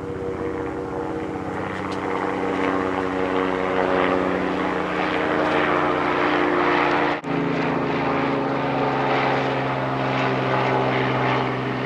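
Small helicopter flying low overhead: a steady engine and rotor drone whose pitch drops a little about seven seconds in, with a momentary dropout at that point.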